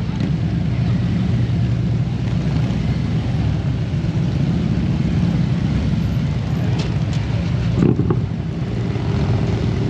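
Motorcycle engine running steadily under way, a low drone with wind rush over it.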